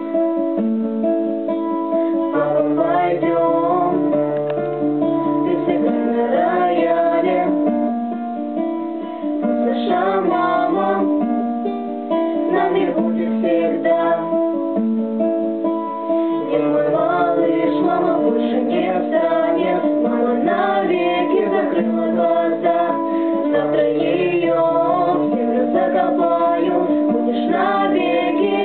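Guitar playing an instrumental passage: picked melody notes over held chords and bass notes, changing every couple of seconds.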